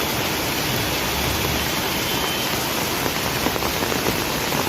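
Heavy rain falling: a steady, dense hiss of pouring water with fine pattering throughout.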